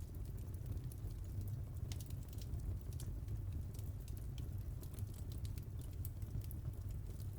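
Wood fire crackling: frequent small, irregular pops and ticks over a low steady rumble of the burning fire.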